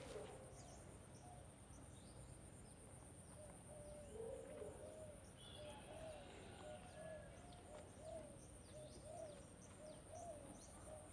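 Faint outdoor birdsong: a low cooing call repeated about once or twice a second, with scattered high chirps from small birds.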